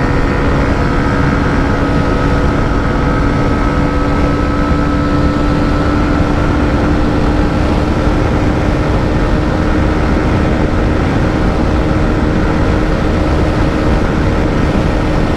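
Hero Xtreme 125R's single-cylinder 125 cc engine running at steady high revs in fifth gear near its top speed of about 118 km/h, its note holding level, under heavy wind rush on the rider's microphone.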